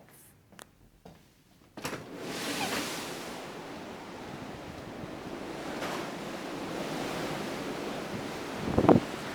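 Steady rushing noise of wind and sea on a smartphone microphone, starting about two seconds in after near silence, with a brief loud burst near the end.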